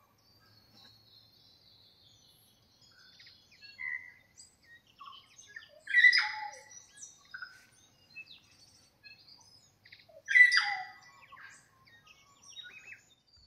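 Birds chirping and singing, many short calls and whistles, with two louder calls about six and ten seconds in.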